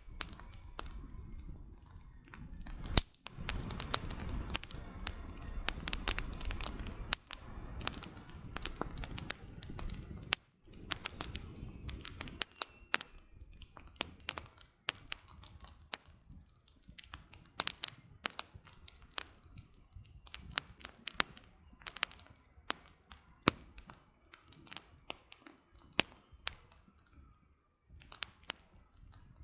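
Campfire of burning firewood crackling, with irregular sharp snaps and pops. A low rumble sits under the snaps from about three to twelve seconds in.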